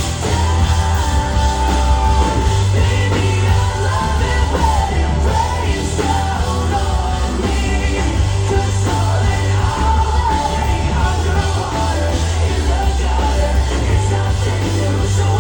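Live rock band mid-song, with a lead singer's vocal over a heavy, steady bass and full band backing.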